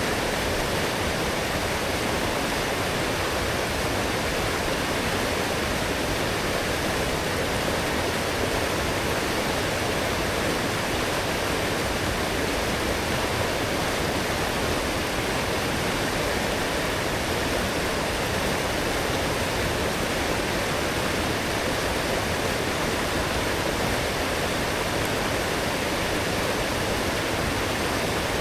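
A strong forest stream in spate after heavy rain: fast water rushing over rocks in a steady, unbroken rush.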